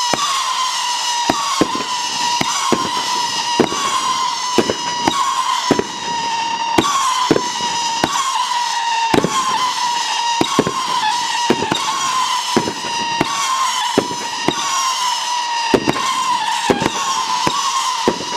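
A Dominator 'Howling Peony' 500-gram repeater cake firing shot after shot, about one or two a second, each with a sharp bang. Loud overlapping howling whistles slide slightly down in pitch throughout.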